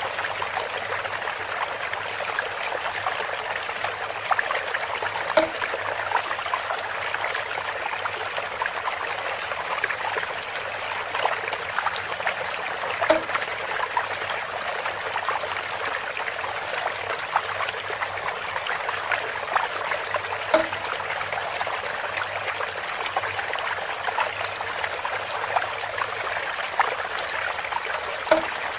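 Water trickling and splashing steadily from a bamboo water feature, with a short low note recurring about every seven and a half seconds.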